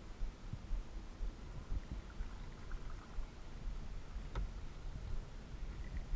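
Kayak on a lake: paddling and water against the hull, with low uneven rumbling on the GoPro microphone and a single sharp tick a little past four seconds in.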